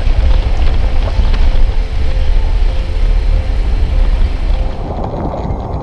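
A 4x4 vehicle driving along a dirt off-road trail: a steady, loud low rumble of engine and tyres with light rattles and ticks. About five seconds in, the hiss drops away and the sound turns duller and quieter.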